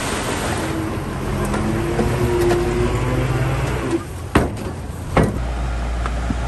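Bulldozer's diesel engine running with a wavering whine, and two sharp knocks near the end before the sound settles into a steady low hum.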